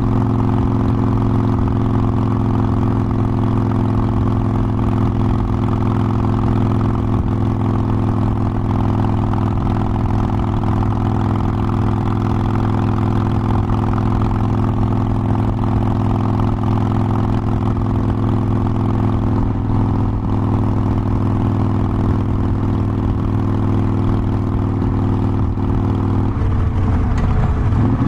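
Harley-Davidson Forty-Eight Sportster's air-cooled 1200 cc V-twin running steadily at an even engine speed, with a brief change in pitch near the end.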